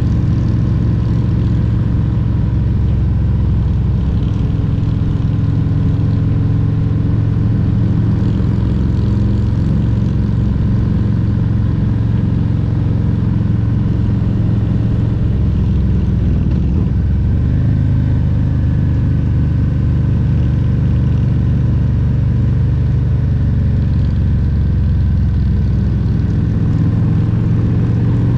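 Harley-Davidson Milwaukee-Eight 114 V-twin engine running under way on a Road Glide Special. The engine note wavers a little past halfway and then settles at a slightly different pitch.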